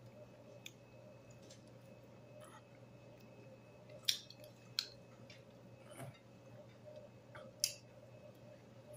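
Chewing on crispy flour-coated fried chicken wings, with a few short sharp crunches, the loudest about four seconds in and near the end, over a faint steady hum.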